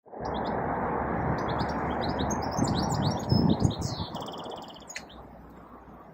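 Small songbirds chirping, with a quick trill, over a steady rushing noise that fades away about four seconds in; a few low thuds come just before it fades.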